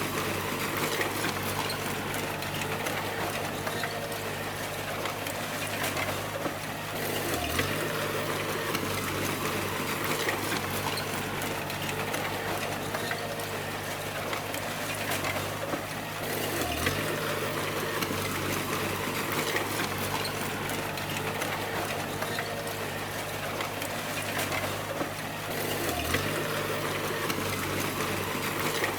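Bulldozer's diesel engine running steadily under a continuous rushing noise, its low tone dipping briefly about every nine seconds.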